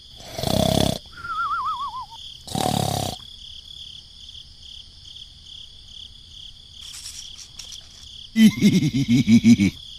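Cartoon snoring sound effect: a rasping snore, a falling wavy whistle, then a second snore, over a steady high background tone. Near the end comes a quick run of about a dozen short pitched squeaks, the loudest part.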